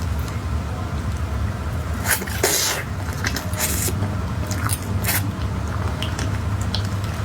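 Eating a mille crêpe cake: soft squishy bites, small clicks and scrapes, and a few short rustles, loudest about two to three seconds in, over a steady low hum.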